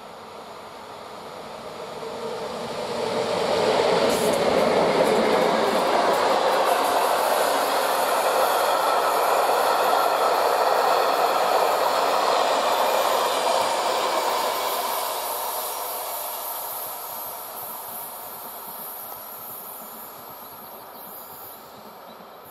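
Passenger train hauled by EP07 electric locomotives passing by, its wheels running on the rails. The noise builds over the first few seconds, stays steady and loud for about ten seconds, then fades away as the train recedes.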